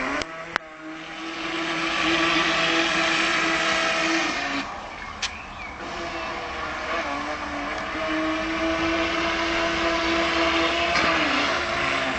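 Radio-controlled boat's motor running at speed: a steady whine over a rushing hiss. It eases off about four and a half seconds in and picks up again a couple of seconds later. A few sharp clicks near the start.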